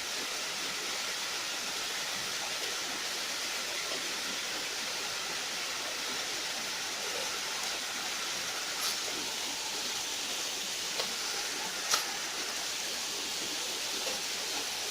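Steady rush of flowing river water, an even hiss without any pitch. A couple of faint clicks come partway through, and a sharper click about three seconds before the end.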